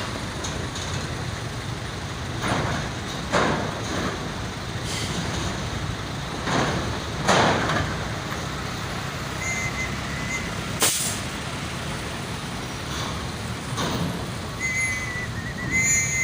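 Heavy truck engines running, with repeated short air-brake hisses and a few brief high-pitched squeals.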